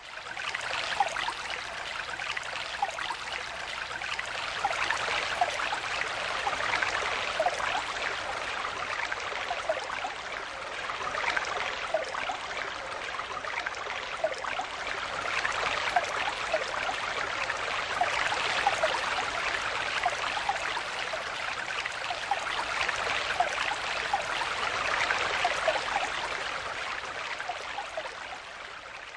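Stream water flowing: a steady rush with many small bubbling gurgles, swelling and easing every few seconds. It fades in at the start and fades out near the end.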